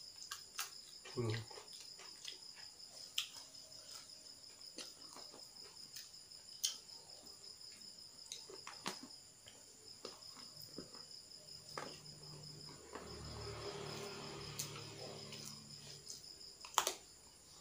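Crickets chirping steadily in the background, with scattered sharp clicks and smacks of eating. A low murmur of voices comes in about two-thirds of the way through.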